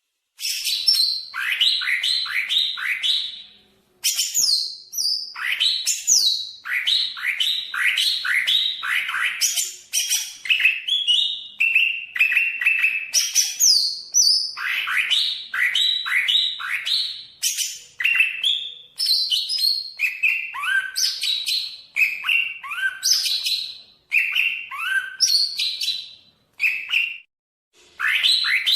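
Greater green leafbird (cucak ijo) singing a fast, varied song of short, high notes that sweep downward, in long runs with brief breaks about four seconds in and near the end.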